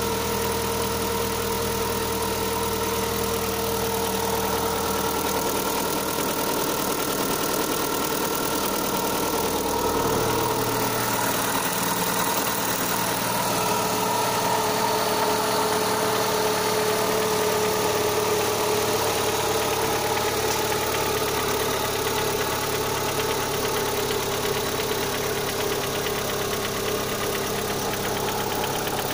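Opel Zafira A's 1.8 X18XE1 four-cylinder petrol engine idling cold, with the knock that the owner puts down to the intake manifold. The idle note changes about ten seconds in.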